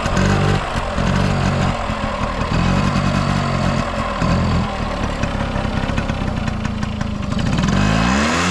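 Yamaha Passol D moped's small two-stroke engine running, its pitch changing with the throttle, then revving up with a rising note near the end. It shows no abnormal noise.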